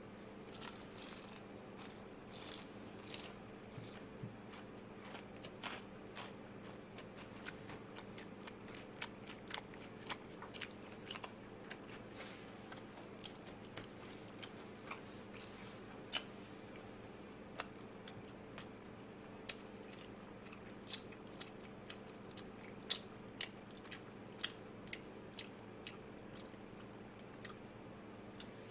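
Chewing and crunching of crispy perilla-leaf fried chicken close to the microphone: many short, sharp crunches scattered throughout, over a faint steady hum.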